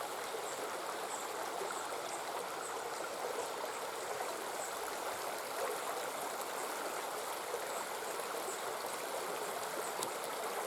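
Steady rushing of a flowing stream, with faint, scattered high chirps over it.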